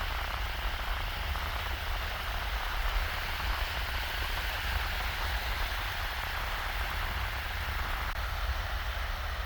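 Shallow waves washing steadily onto a sandy beach, a continuous hiss, with a breeze rumbling on the microphone.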